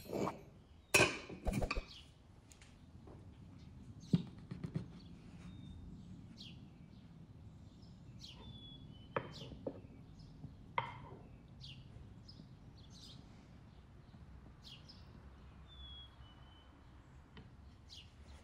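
Birds chirping now and then in the background: short, high chirps scattered throughout. The loudest sounds are two knocks about a second in, with a few fainter knocks and clinks later, from serving dishes and cutlery being handled.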